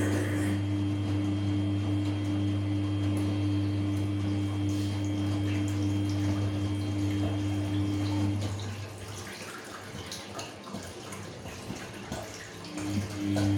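Samsung P1271 washing machine humming steadily with water running inside. The hum stops a little past halfway, leaving water trickling and dripping, then starts again near the end.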